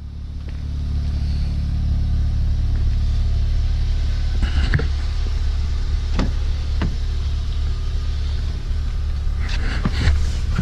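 A 2016 VW Golf R's turbocharged four-cylinder engine running with a steady low rumble that builds over the first second or two. A few short knocks and clicks come through, most of them near the end.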